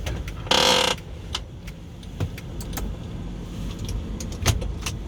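2012 Honda Pilot's V6 running low while the SUV reverses, heard from inside the cabin. There are scattered sharp clicks, and one short loud burst of noise about half a second in.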